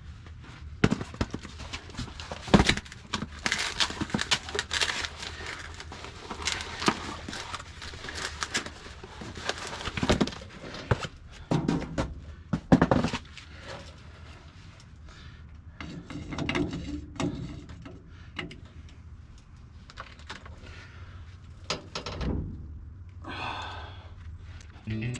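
Irregular metal clanks, knocks and clatters of parts and hand tools being handled while a wheel spacer is fitted to a wheel hub, busiest in the first half.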